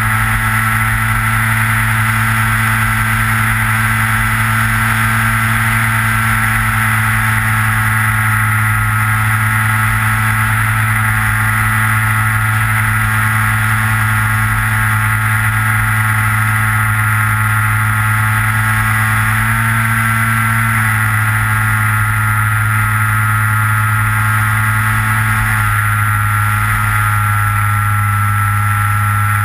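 Electric motor and propeller of a Skywalker RC plane running steadily in flight, heard from the plane's onboard camera: a loud low hum with a higher whine over it that shifts slightly in pitch twice in the latter part.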